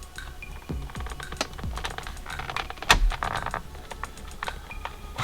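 Screwdriver tip clicking and scraping in the plastic of a steering wheel while releasing the airbag's spring latch, with a louder knock about three seconds in. Background electronic music with a low beat plays underneath.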